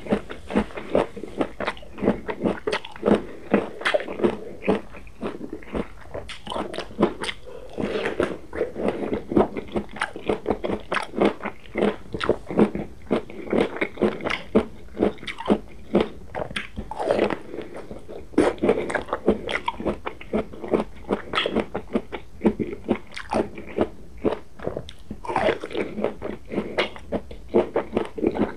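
Close-miked eating of roasted, charred eggplant: bites and steady chewing, with a continuous run of wet clicks and crunches several times a second.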